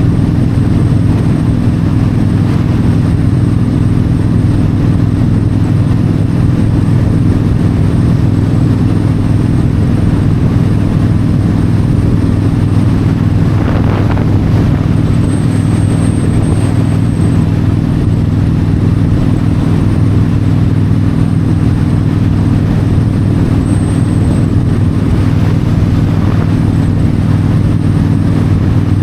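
Yamaha V-Star 1300's V-twin engine running at a steady cruise on the open road, with wind noise. There is a short swell of noise about halfway through.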